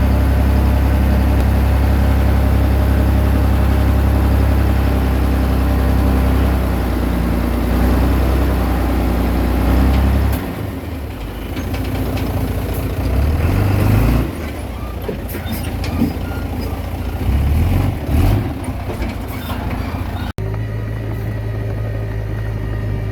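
Komatsu D20P bulldozer's diesel engine running hard with a deep steady drone, then dropping off about halfway and revving up briefly twice, with scattered knocks. Near the end it cuts abruptly to a steadier engine note.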